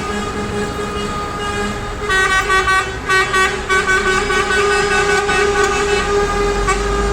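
Passing trucks sounding their horns: one steady low horn note runs on while a series of short, higher horn blasts sounds between about two and four seconds in, over the rumble of truck engines.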